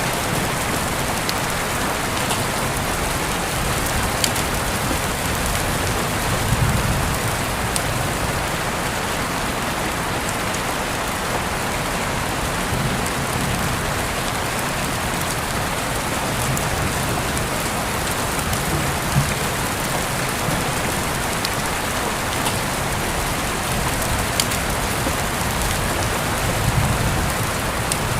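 Steady rain falling and pattering on surfaces, an even hiss with a few sharper drop ticks scattered through it.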